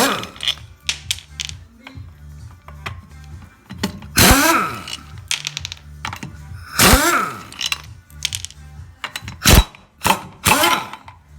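Background music with a steady beat over the clicks and clanks of a wrench loosening a car's wheel bolts. Four louder sounds stand out, a few seconds apart, and some of them fall in pitch.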